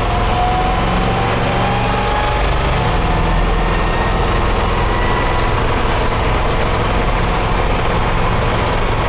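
Fuel-injected Chevrolet 350 small-block V8 running under way, heard from inside the cab of a Toyota FJ45, with thin whining tones that climb slowly in pitch.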